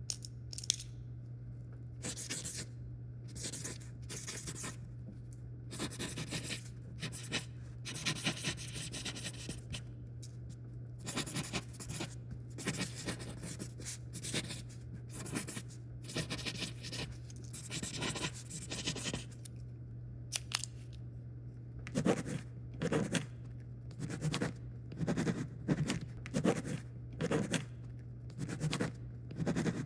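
Writing on paper: a writing tip scratching across the page in quick strokes, with a stretch of nearly continuous scribbling in the middle and shorter, separate strokes near the end. A steady low hum runs underneath.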